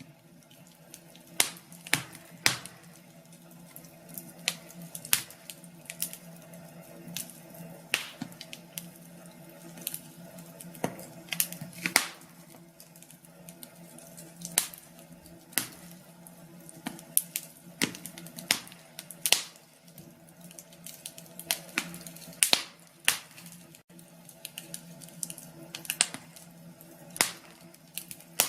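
Wood fire crackling in a fireplace: irregular sharp pops and snaps, sometimes in quick clusters, over a faint low hiss and hum.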